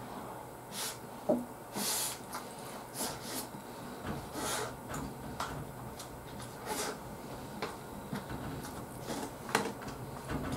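Someone chewing a mouthful of sushi: irregular short, wet smacks and clicks of the mouth.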